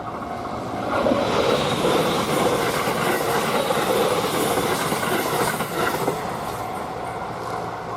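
A train passing over a level crossing, its wheels clattering on the rails. It is loud from about a second in and eases off after about six seconds. The crossing's warning bell rings steadily underneath.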